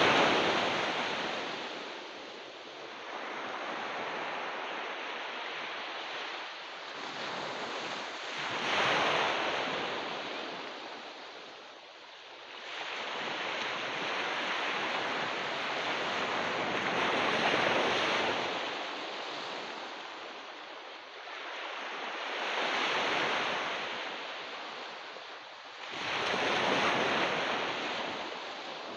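Ocean surf on a beach: waves break and wash in, each surge rising and fading away, with a new one every few seconds.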